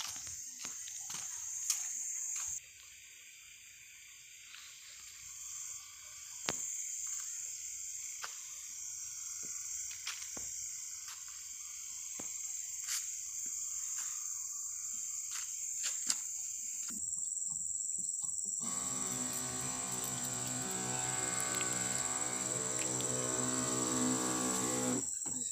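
Crickets trilling in a steady high-pitched chorus, with scattered clicks. For the last several seconds a steady low hum with many overtones joins in.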